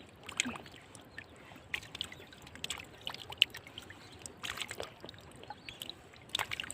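Light splashing and trickling of shallow floodwater, in scattered short splashes with a denser cluster about four and a half seconds in and again near the end.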